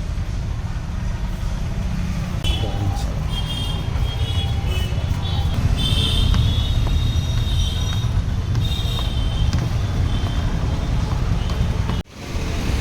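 Roadside traffic noise: a steady low rumble of passing motor vehicles, with short high-pitched tones now and then. The sound drops out abruptly for a moment near the end.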